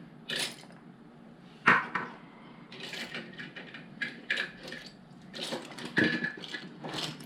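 Plastic LEGO pieces clicking and clattering as they are handled, with irregular small knocks and one sharper click about a second and a half in.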